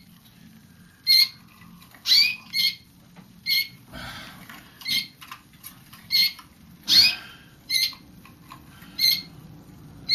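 Young roller canaries giving short chirping notes, about one a second, a few of them quick rising glides.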